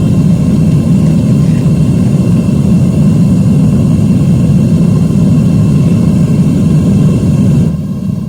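Propane forge burner running, a loud steady low rushing noise, while it melts aluminum in the crucible. It drops away sharply near the end.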